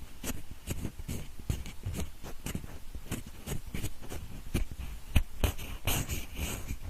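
Pencil scratching and rubbing very close to the microphone in ear-cleaning (mimikaki) style: quick, irregular scratchy strokes, several a second, with a few sharper ticks, mixed to sound in both ears at once.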